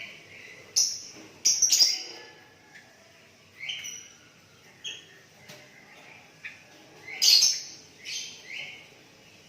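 Sooty-headed bulbul (kutilang) calling in a series of short chirps. The loudest come about one and a half seconds in and again about seven seconds in.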